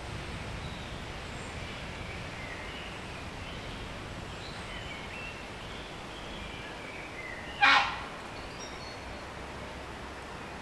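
A grey heron gives one short, loud, harsh squawk about three-quarters of the way in, a goose-like call. Faint birdsong of small birds at dusk runs underneath, over a steady background hush.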